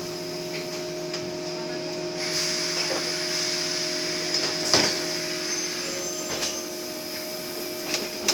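Inside a city bus on the move: a steady hum with a few fixed tones, a hiss that rises about two seconds in, and sharp knocks and rattles about five seconds in and twice near the end.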